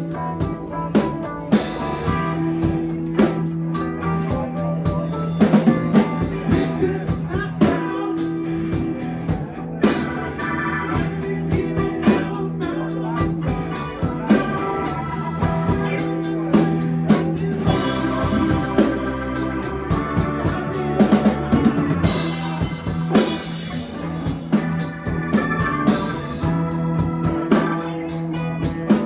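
Live band playing an instrumental passage: a drum kit keeps the beat under a long held low note and shifting chords.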